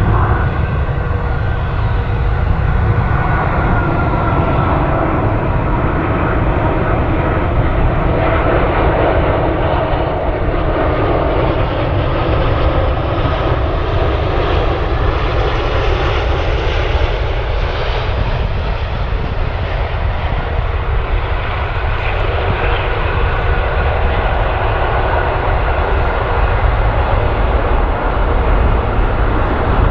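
Airliner's engines heard as the plane passes the runway: a loud, steady rush and rumble that swells to a peak about halfway through and then slowly eases off.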